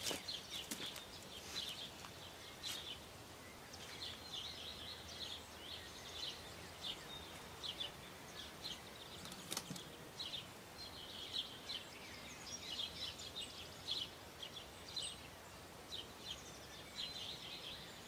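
Small birds chirping in short, repeated notes over a faint steady background, with a single knock about halfway through.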